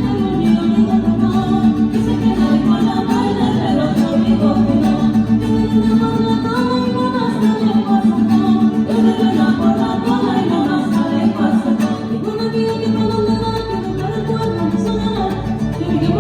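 A Mexican string band of violins, guitars, harp and bass playing a tune, amplified through a PA during a sound check.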